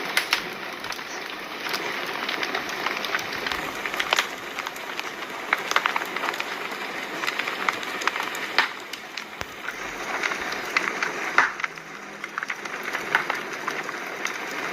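Fire crackling: a steady hiss of flames with many sharp, irregular pops and snaps, a few of them louder than the rest.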